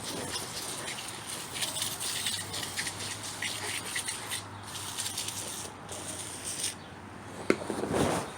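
Dense crackling and rattling of many small clicks, from a grimy vacuum pump being cleaned with foaming no-rinse evaporator coil cleaner. There is a sharp click near the end, then a louder scuff.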